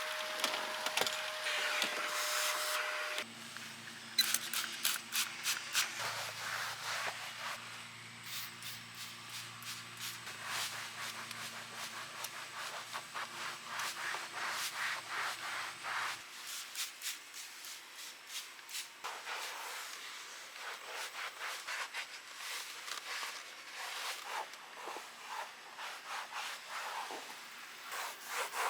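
Quick back-and-forth scrubbing strokes rubbing on car carpet, the tightly woven fibres holding ground-in dirt. A steady motor whine runs at the start and cuts off about three seconds in.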